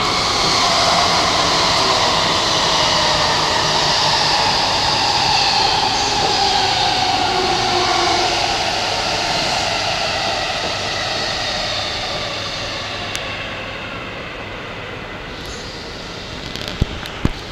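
JR East E233 series Keihin-Tohoku Line electric train running past on a nearby track as it comes in, its motor whine slowly falling in pitch as it slows. The noise fades over the second half, with a couple of sharp knocks near the end.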